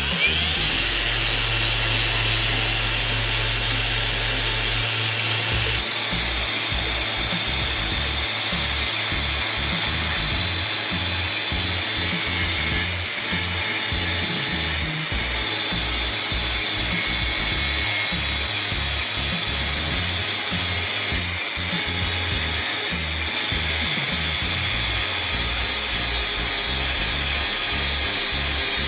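An electric power tool starting up with a rising whine, then running steadily at a high pitch, as in work on the chisel's steel. Background music plays under it.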